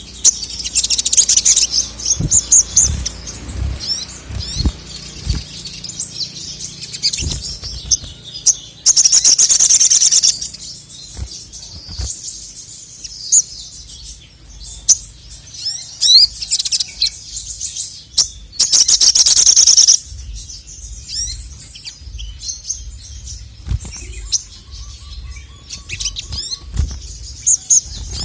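A male sogon (sogok ontong), a sunbird, singing in rapid, high-pitched chirps and twitters. Two long, loud, fast trills come about a third and two-thirds of the way in, each lasting about a second and a half. Soft low knocks sound underneath.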